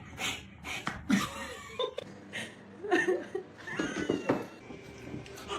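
A domestic cat making gliding, pitched calls in the middle of the clip, after a run of quick sharp taps near the start.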